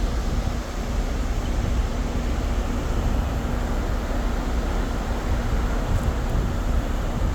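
Steady wind noise over the low rumble of a moving cruise ship, with a faint steady hum.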